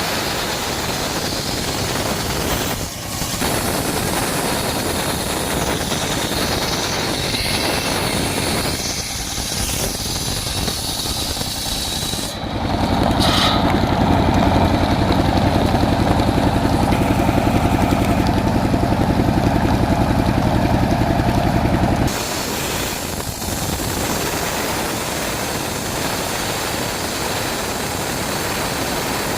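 Engine-driven circular saw rig running steadily under a constant hiss of heavy rain. For about ten seconds in the middle a louder, steady engine drone takes over and then stops abruptly, typical of the engine working under load while the blade cuts a coconut trunk.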